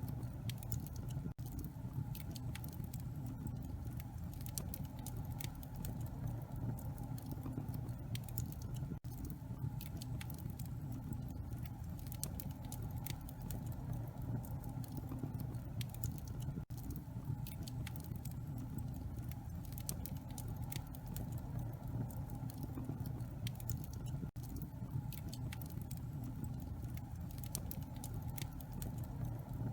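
Wood fire burning in a fireplace: many small, irregular crackles and pops over a steady low rumble. The sound cuts out very briefly about every seven and a half seconds.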